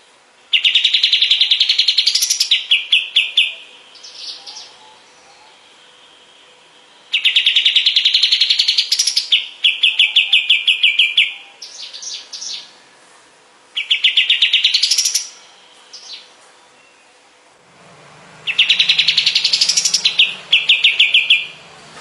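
A kapas tembak songbird singing in four bouts with short pauses between them. Each bout is a fast, rising trill followed by a quick stuttering run of lower notes.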